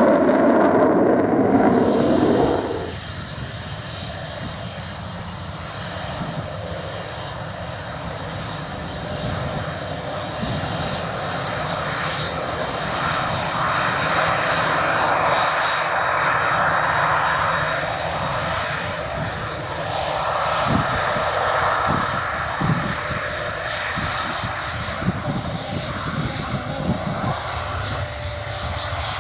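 Panavia Tornado GR4 jet engines (twin RB199 turbofans) running, with a thin high whine over the engine noise. Very loud for the first two or three seconds, it drops off sharply, then carries on steadily, swelling and easing back a couple of times, with a few short knocks late on.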